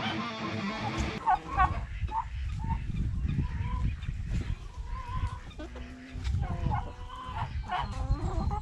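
Chickens clucking, many short calls overlapping, with a low rumble underneath.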